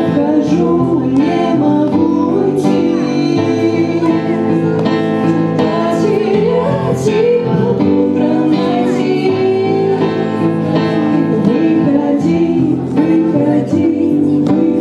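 Live rock band playing a song with several voices singing together.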